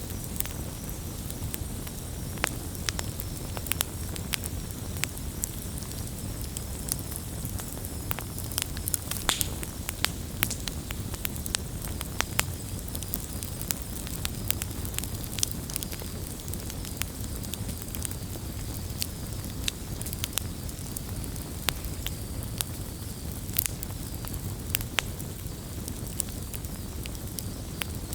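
Wood campfire burning, with frequent irregular sharp crackles and pops over a steady low rush of the flames.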